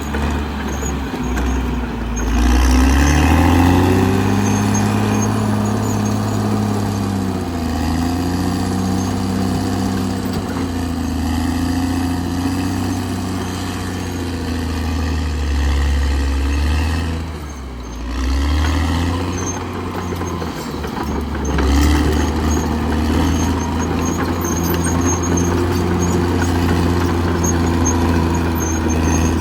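Caterpillar D6R XL bulldozer's diesel engine working under load, its pitch rising and falling as the load and throttle change, with a brief dip a little past halfway.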